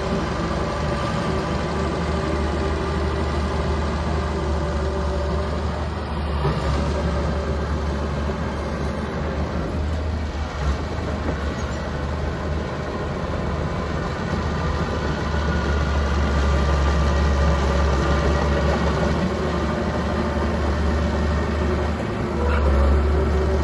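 Small bulldozer's diesel engine running steadily, with a deep low hum and a few steady tones above it; it gets somewhat louder in the second half, as under heavier load.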